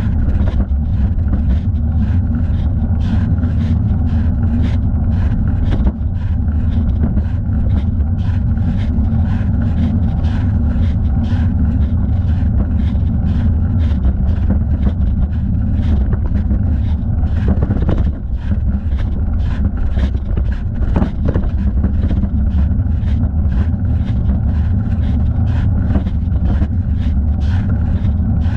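Wind and road rumble on a thigh-mounted camera's microphone while riding a bicycle: a loud, steady low rush with a faint regular pulse about twice a second as the leg pedals.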